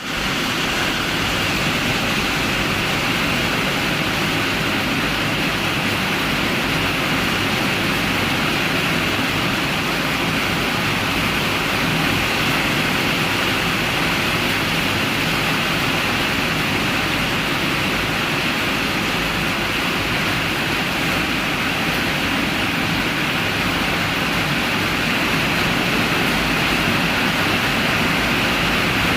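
Heavy rain falling, a steady even hiss that holds at one level throughout.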